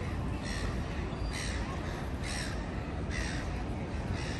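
A bird calling in short, harsh cries, about one a second, five in all, over steady low city street rumble.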